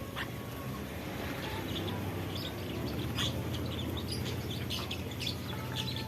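Many small aviary birds chirping in short, scattered calls, over a steady low hum.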